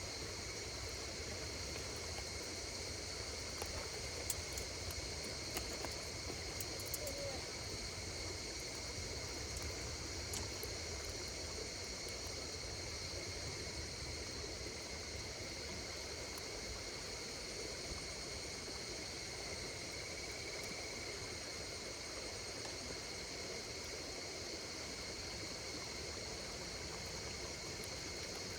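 Insects calling steadily in two high, continuous bands, over a low even rustle, with a few sharp crackles from a wood campfire in the first ten seconds or so.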